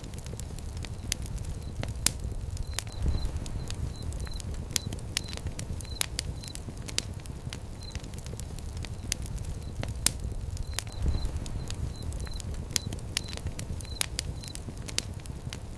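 Fire pit flames crackling, with frequent sharp irregular pops over a steady low rumble. Faint short high chirps recur in little groups throughout.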